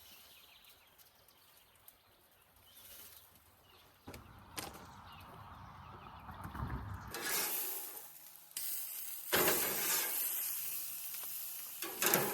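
Food sizzling in a hot pan, faint at first, then sizzling loudly in spurts from about seven seconds in, with a single click a little before that.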